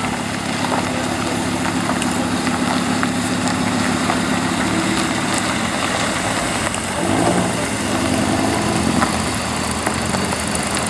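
Classic car engine idling steadily; about seven seconds in, the engine note changes.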